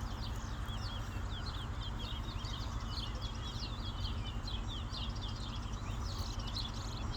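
A caged competition songbird singing a long, fast song of short, high, down-slurred twittering notes that runs without a break, over a steady low background rumble.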